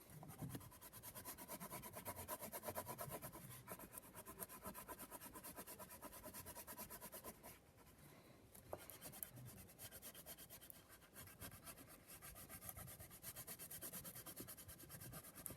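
Construction-paper crayon scribbling on paper in quick back-and-forth strokes as an area is coloured in, faint, with a short pause about eight seconds in.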